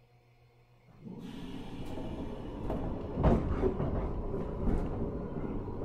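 JR 103 series 1500 electric train heard from on board as it pulls away from a station. Its running noise starts suddenly about a second in and builds steadily, with several sharp knocks; the loudest comes a little past the middle.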